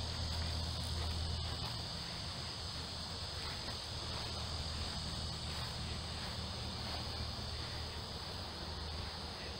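Steady chorus of insects, a constant high buzzing drone. A low steady hum sits beneath it and fades out about two seconds in.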